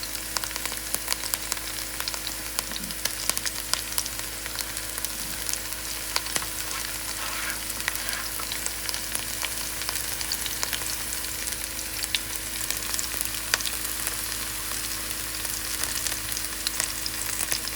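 Chopped onion, scallion, thyme and freshly added garlic frying in hot oil, a steady sizzle dense with small crackling pops.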